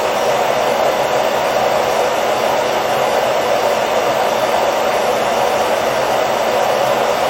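Hair dryer blowing steadily, an even rushing whoosh with a faint low hum from its motor, unchanging throughout.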